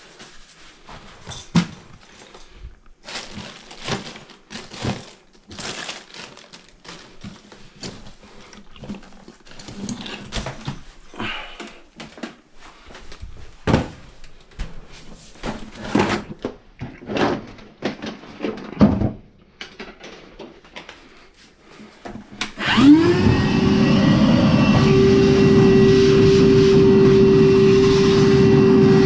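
Clicks and knocks of parts being handled and fitted. About 23 s in, the Frigidaire dryer's drive motor switches on, spins up quickly and runs with a steady hum.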